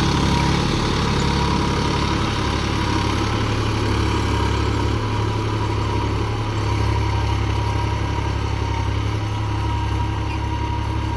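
New Holland 4710 tractor's diesel engine running at a steady speed with a low, even hum.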